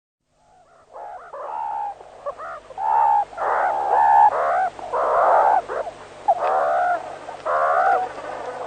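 A bird giving a rapid series of harsh, bending calls, one after another, starting about a second in and cutting off abruptly at the end.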